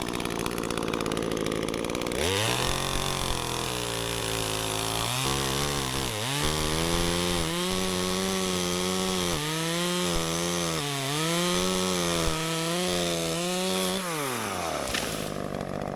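Echo CS-355T two-stroke top-handle chainsaw, idling, then opened up to full throttle about two seconds in to cut wood. Its engine pitch dips repeatedly as the chain takes load. Near the end it is let off and drops back to idle.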